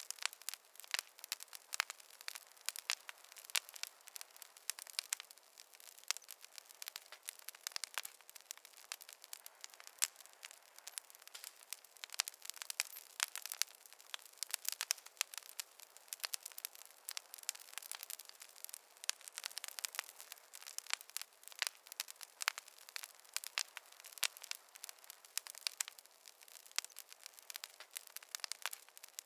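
Campfire burning with dense, irregular crackling and popping of wood.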